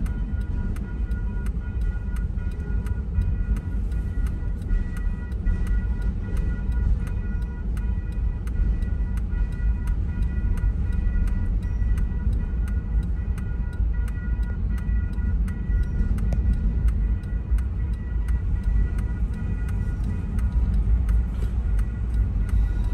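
Steady low rumble of a long double-stack container freight train rolling through a road crossing, heard from inside a car. A steady ticking, about two to three ticks a second, and faint on-and-off high tones run over it.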